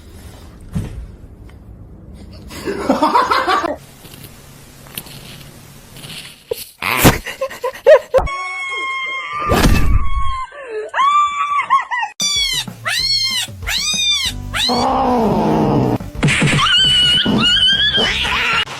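Cats meowing and yowling in several short clips, over background music. About two-thirds through comes a quick run of short calls, each rising and falling in pitch.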